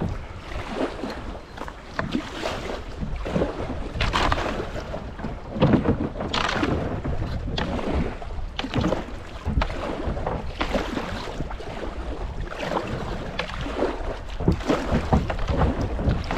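Kayak paddle strokes splashing in shallow creek water, in irregular surges about every second, with wind rumbling on the microphone.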